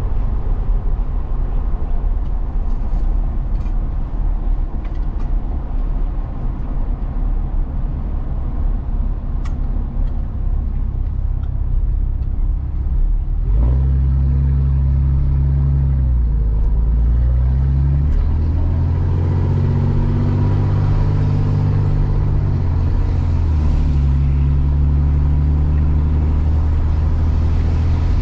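Truck engine and road rumble while driving. About halfway through, the engine note grows into a strong steady drone, and its pitch steps up and down a few times.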